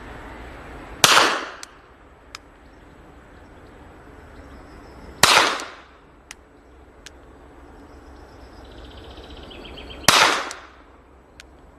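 Three single shots from an 8mm Rast & Gasser revolver, fired slowly about four to five seconds apart, each a sharp crack with a short echoing tail. Faint clicks come between the shots.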